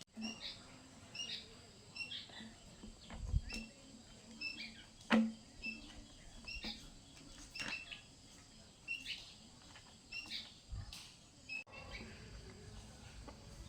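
Birds chirping: short high chirps, often in pairs, repeating every second or so, with scattered faint clicks and a few louder knocks, the loudest about five seconds in.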